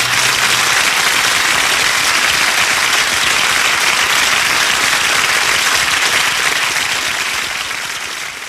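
Concert audience applauding and cheering after a song ends, steady throughout and fading away near the end.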